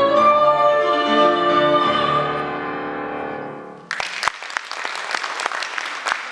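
A child singing in classical style holds a final note over piano accompaniment, fading out; about four seconds in, audience applause starts abruptly.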